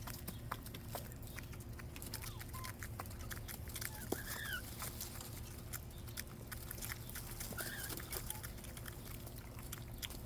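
Quail pecking and scrabbling for bugs, heard as many quick scattered clicks, with short chirps about four seconds in and again near eight seconds.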